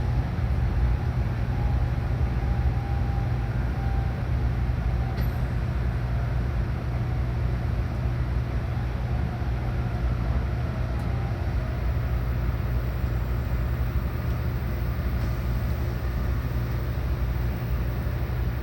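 Shinkansen train noise: a steady low rumble with no separate events.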